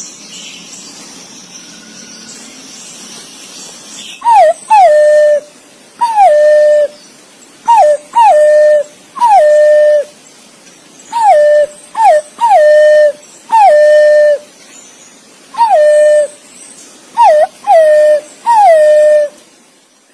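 Green pigeon (punai) calling: from about four seconds in, a run of loud whistled notes, each sliding down and then held on a steady pitch, some clipped short and some drawn out, repeated again and again.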